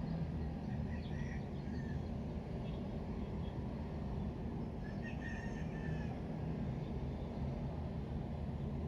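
Steady low ambient rumble, with short high chirps, like small birds, around a second in and again about five seconds in.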